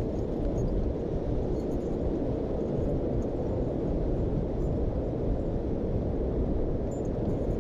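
Steady low rumbling noise with no distinct tones or separate events.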